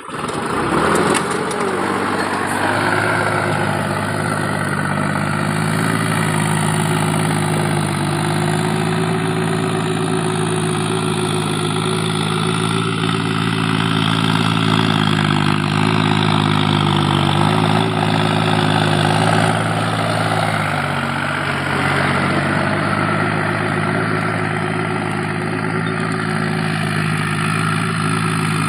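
Tractor diesel engine starting up and then running steadily, its pitch dipping and recovering slightly a few times.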